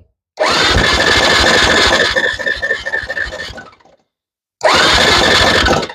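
Honda FourTrax 300 ATV's electric starter cranking the single-cylinder engine in two bursts, a long one that trails off and a shorter one, without the engine firing.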